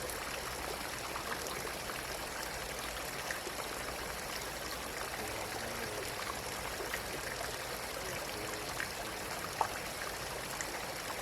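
Steady noise of running water, with a few faint clicks and taps over it.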